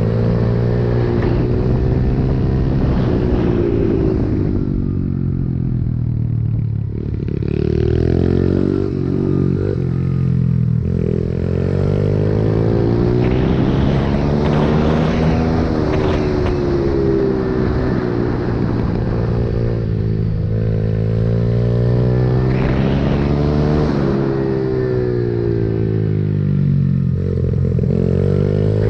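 Pit bike engine being ridden hard, its note climbing under throttle and dropping back over and over, as on acceleration, gear changes and braking through corners.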